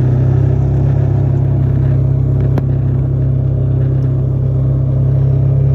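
Boat motor running steadily under way, a loud, even low hum, with a single sharp click about two and a half seconds in.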